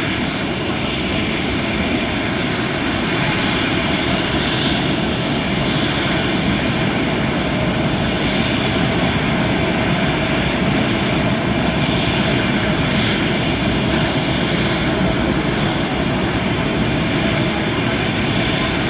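Helicopter engine and rotor running at a steady, even level throughout, with no rise or fall.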